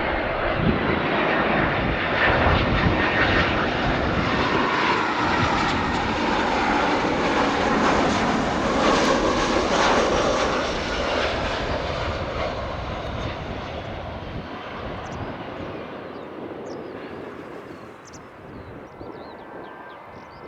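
Jet airliner passing close, its engine noise loud for about twelve seconds and then fading away.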